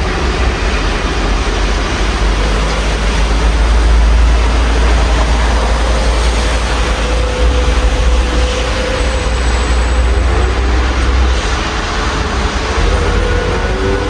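Rain falling steadily outside an open window, with street traffic underneath: a low rumble of a passing vehicle swells from about two seconds in and fades away near the end.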